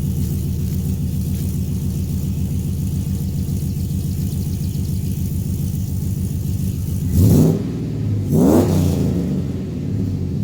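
2003 Chevy Silverado 2500HD's 6.0-litre V8 idling through aftermarket headers and a true dual X-pipe exhaust, blipped twice about seven and eight seconds in, each rev rising and falling back to idle.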